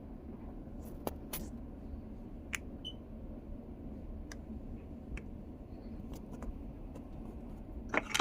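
Scattered light clicks and taps of small plastic parts being handled and worked apart during the teardown of a car's multimedia commander control knob, over a steady low background hum, with a small cluster of clicks near the end.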